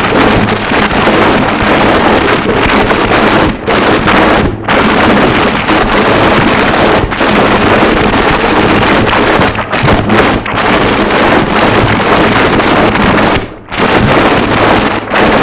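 Harsh noise wall: a loud, dense wash of static-like electronic noise across the whole range, with a steady low hum underneath. It breaks off in a few brief dropouts, the deepest a little before the end.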